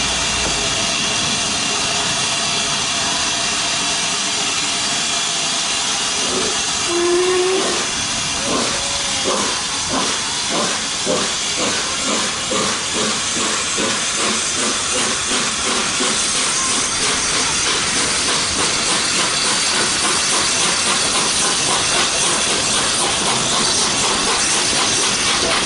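Peppercorn A1 steam locomotive 60163 Tornado hissing steam, then giving a short low whistle about seven seconds in. It then starts away: its exhaust beats begin slow, about two a second, and quicken steadily as it gathers speed.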